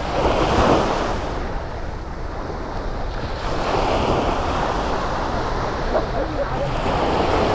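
Sea waves washing onto the shore, with wind buffeting the microphone; the surf swells louder about half a second in and again in the last second or so.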